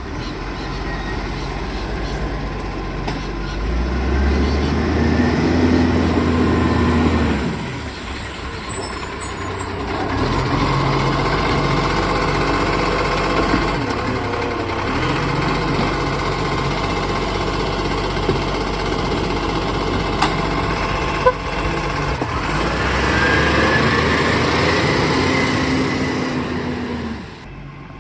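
Garbage truck's diesel engine revving up and settling back in several surges, with a brief high squeal about a third of the way in.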